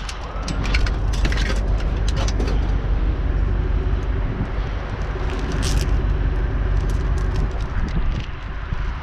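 A vehicle running with a steady low rumble, with scattered short clinks and rattles over it.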